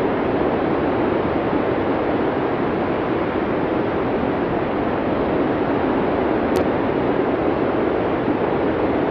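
Steady blizzard wind, an even rushing noise with no gusts or breaks, and one faint click about six and a half seconds in.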